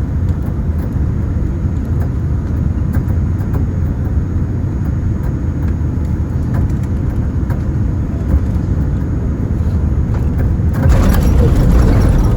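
Cabin noise of a Boeing 787-10 on final approach: a steady low rumble of engines and airflow. About eleven seconds in it jumps suddenly to a louder rumble and rush, as at touchdown on the runway.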